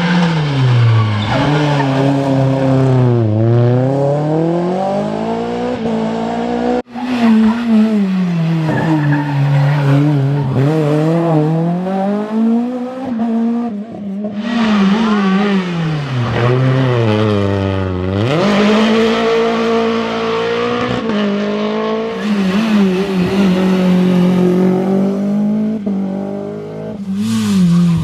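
Renault Clio Williams rally car's 2.0-litre four-cylinder engine revved hard, its pitch climbing and dropping again and again as it pulls through the gears and lifts off. There is a sudden cut to another pass about seven seconds in.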